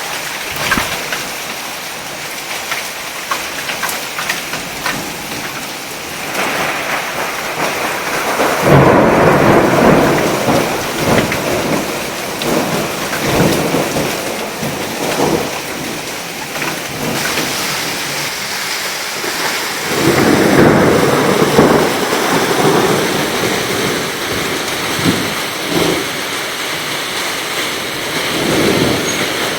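Heavy downpour pouring steadily, with thunder rumbling in louder swells about nine seconds in, around twenty seconds, and again near the end.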